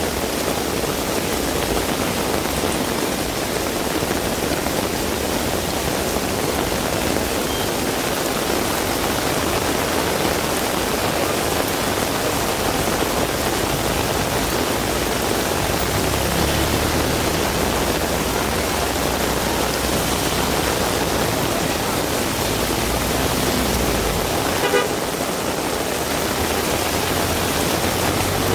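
Heavy rain falling steadily as a dense hiss, with a motor vehicle rumbling past low underneath, and a short car-horn toot near the end.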